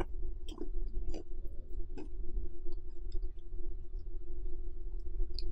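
Close-up chewing of a mouthful of buttered toast, with a few sharp crunches and mouth clicks in the first two seconds and lighter ticks after. Under it runs the steady hum of an electric fan.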